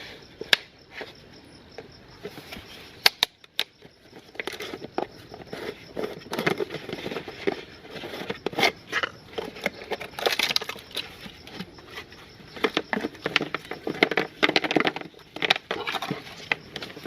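Meat grinder crunching and crackling as it grinds something up, with irregular sharp cracks, the sharpest about three seconds in.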